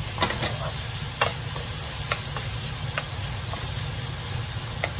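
Chopped beef sizzling in a frying pan while a wooden spoon stirs it, with sharp knocks of the spoon against the pan about once a second.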